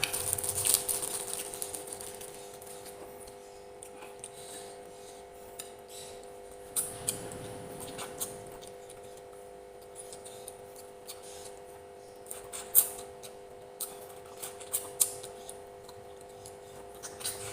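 Spoon and fork clicking and scraping against a plate while eating, in scattered sharp clicks, over a steady low electrical hum.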